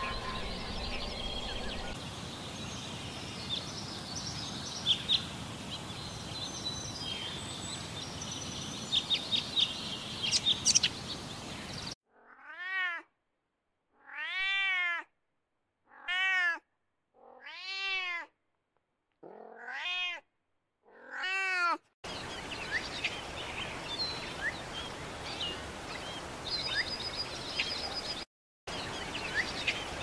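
A cat meowing six times, each call drawn out and rising then falling in pitch, about two seconds apart with silence between them. Before and after the meows, short bird chirps sound over steady outdoor background noise.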